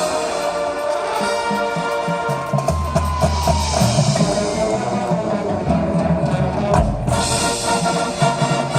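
High school marching band playing: brass holding sustained chords over drums, with the low bass joining about three seconds in and one heavy low hit just before seven seconds.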